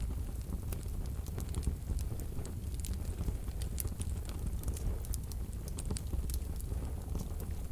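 Wood fire burning in a wood-burning stove: a quiet crackling of many small, irregular sharp pops over a steady low rumble.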